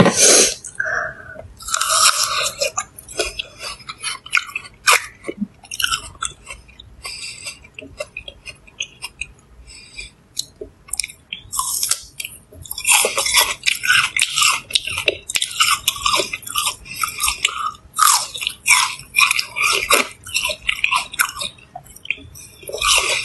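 Crunchy biting and chewing of pieces of fresh fruit taken off a wooden skewer, in clusters of crisp crunches that are sparse at first and come thick and loud in the second half.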